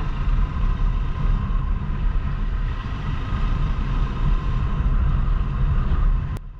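Motorcycle ride: engine running steadily under heavy wind rumble on the microphone, cutting off suddenly near the end.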